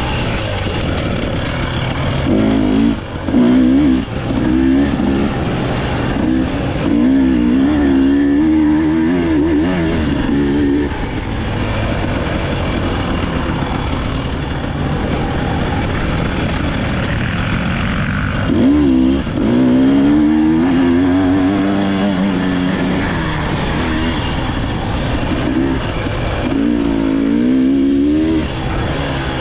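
Dirt bike engine racing along, revved hard in several long surges whose pitch wavers up and down as the throttle is worked, with a steady rushing noise under it.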